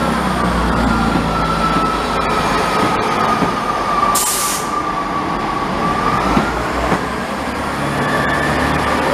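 A train running on the line, with a steady whine that rises a little in pitch and then falls back. A brief sharp hiss of air comes about four seconds in.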